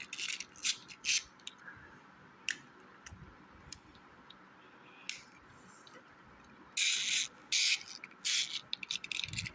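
Plastic toy train set being handled: scattered sharp clicks and knocks, then a few short scraping rustles and a run of clicks near the end.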